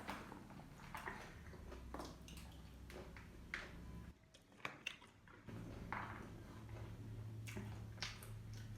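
Someone eating: chewing with scattered short clicks and wet mouth sounds.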